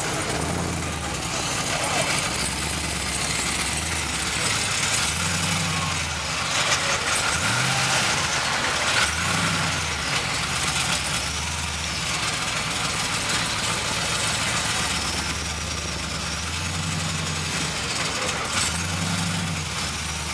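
Car engines running in a crowded lot, with deep low notes that come and go every second or two, some sliding up in pitch, over a steady background hiss.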